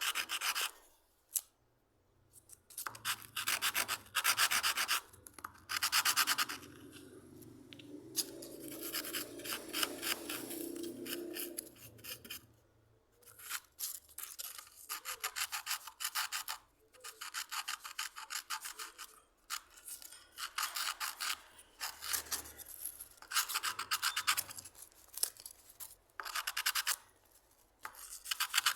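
Hand rubbing with an abrasive on a hand plane's parts: repeated scratchy strokes about a second long, in runs with short pauses, and a duller, lower rub for a few seconds in the middle.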